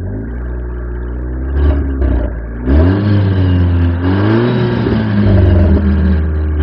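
Car exhaust recorded right at the tailpipes as the engine is revved in light throttle blips. It rises a little first, then climbs more strongly about three seconds in and again a little past four seconds, holds, and starts to fall back near the end.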